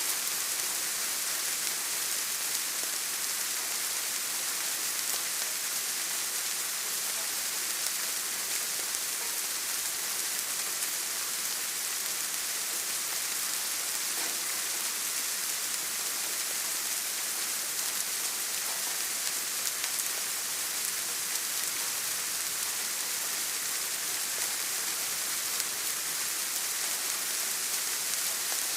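Steady rain falling, an even hiss with fine pattering of drops, unchanging throughout.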